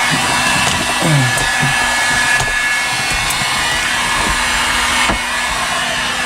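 Electric heat gun blowing steadily with a constant whine, heating the tar backing of sound-deadening sheets so they soften and stick. A couple of faint knocks are heard under it.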